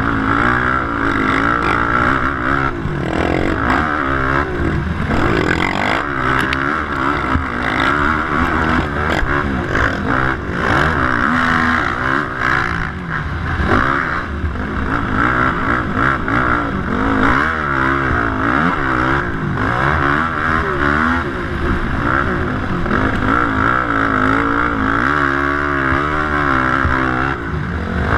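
Yamaha YFZ450 quad's single-cylinder four-stroke engine racing, its revs climbing and dropping again and again with throttle changes, under a steady rushing noise.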